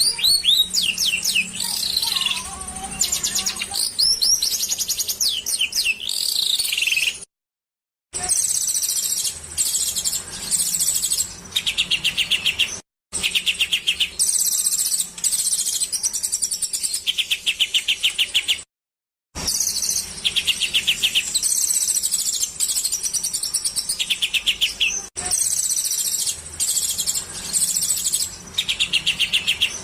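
Small songbirds singing in a masteran bird-song training recording: dense high chattering broken by rapid trills of fast-repeated notes. Recordings of different birds are spliced together with three brief dead-silent gaps between them.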